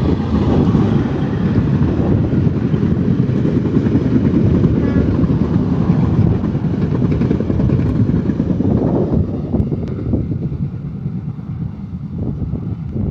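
Diesel-hauled train running past close by: a loud, steady rumble that fades away over the last few seconds.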